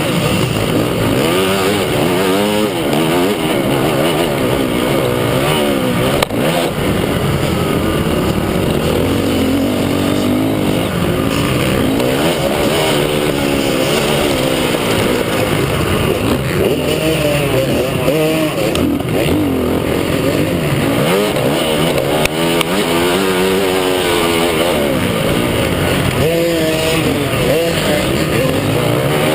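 Several motocross bikes running on a dirt track, their engines overlapping as each one revs up and drops back through the gears.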